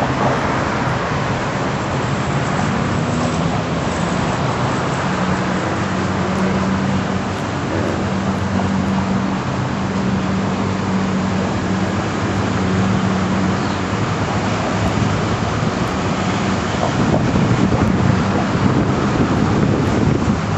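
Car engine running with steady road and wind noise as the car drives slowly, a low hum under a constant rush, swelling slightly near the end.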